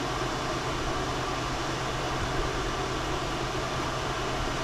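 A machine running steadily: an even low hum under a broad hiss, with no change in pitch or level.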